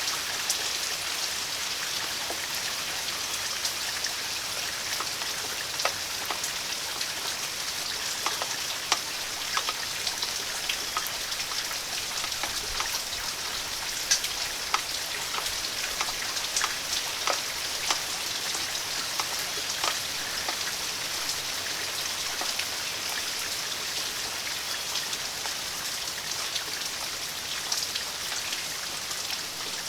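Steady rain falling, a continuous hiss with many individual drops ticking sharply on a hard surface close by.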